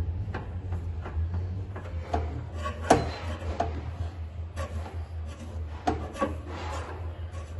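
Paintless dent repair tools working a car body panel: irregular scraping and rubbing with scattered sharp taps and clicks, one louder click about three seconds in, over a steady low hum.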